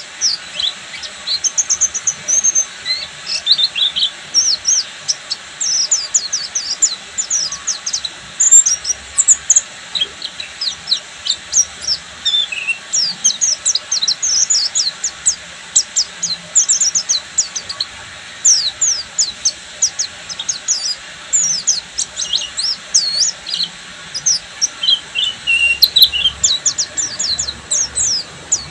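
Pleci buxtoni white-eye singing a full, continuous 'ngeriwik' song: rapid, unbroken high-pitched twittering of quick downward-sweeping chips, several a second, with an occasional lower trill.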